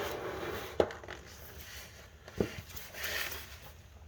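Handling noise from cleaning a flywheel with brake cleaner and a paper towel: rustling, two sharp knocks about a second and a half apart, and a short hiss near the end.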